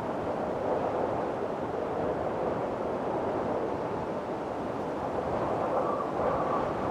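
Strong wind blowing steadily in a windstorm, a dense rushing noise that swells and eases slightly, with a faint whistle near the end.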